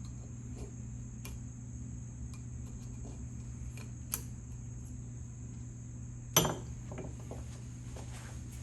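Small metal clicks and clinks as the springs and small parts are worked out of an old Lowell ratchet head, with a sharp tick about four seconds in and a louder clink about six and a half seconds in, over a steady hum.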